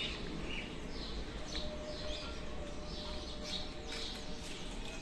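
Small birds chirping, many short high calls scattered throughout, over a steady low background noise.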